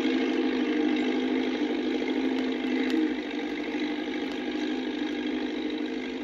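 Massey Ferguson tractor engine running steadily, its level dropping a little about three seconds in.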